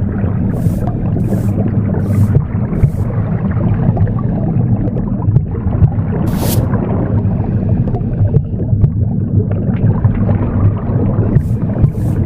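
Recorded womb sound, a loud, steady, low whooshing rumble, mixed with the swishes of a broom sweeping: about four even strokes in the first three seconds, one in the middle, and two more near the end.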